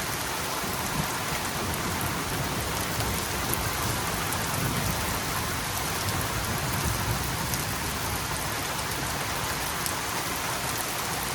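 Rain falling steadily in a thunderstorm, an even hiss that neither builds nor fades.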